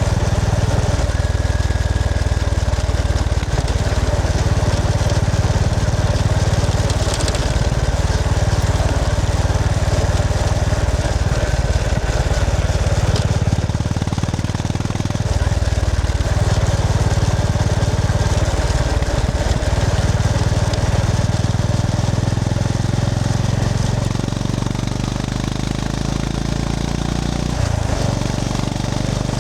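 Honda GB350S's air-cooled single-cylinder engine running as the motorcycle is ridden. The engine note drops briefly about 14 seconds in and picks up again a second or so later, and changes again near the end.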